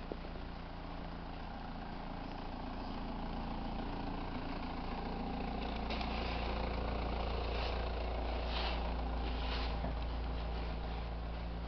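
A car engine idling steadily, growing louder through the middle and then easing off as it is passed.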